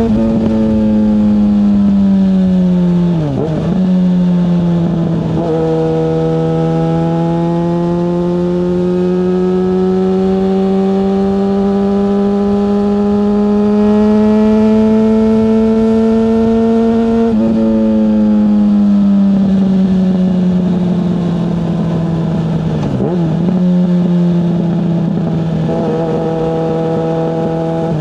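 Yamaha FZ6S's 600cc inline-four engine running while the bike is ridden. The engine note climbs slowly in pitch for about twelve seconds. It dips sharply in revs about three seconds in, around five seconds, again about seventeen seconds in, and near the end.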